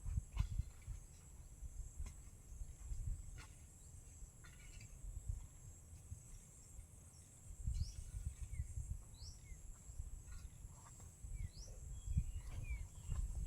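Insects, likely crickets, buzzing steadily in a high band, with a few short rising bird chirps in the second half. Intermittent low rumbles and a few sharp clicks sound under them.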